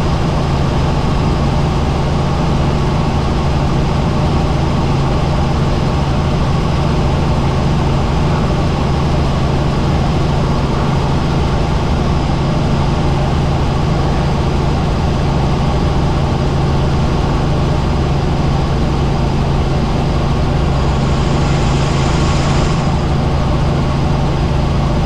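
Helicopter in flight: a loud, steady drone of the engine and rotor with a strong low hum. Near the end, a brief hiss rises over it for about two seconds.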